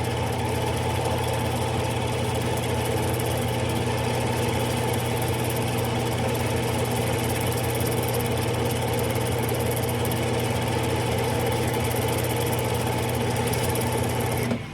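Smithy lathe running steadily with a low hum, switched off near the end and winding down.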